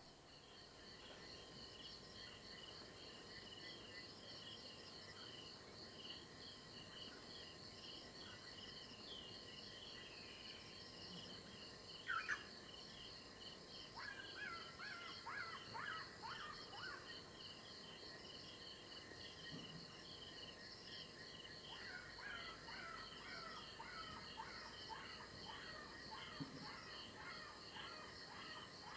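Faint bush ambience: insects trill steadily at a high pitch, with a short bird call about twelve seconds in, a run of falling chirps a little later, and another run of chirps in the last third.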